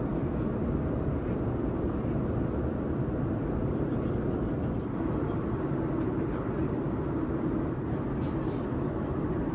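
Steady low rumble of airflow and engine noise inside the cabin of a Boeing 787-9 in flight, with a few faint clicks about eight seconds in.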